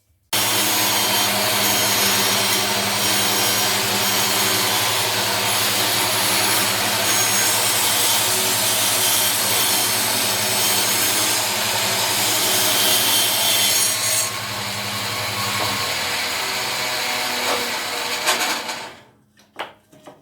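Bandsaw running and cutting a small wooden circle on a pivot-pin circle jig: a steady motor hum under the noise of the blade cutting. The sound starts suddenly, thins about 14 seconds in and stops a second or so before the end.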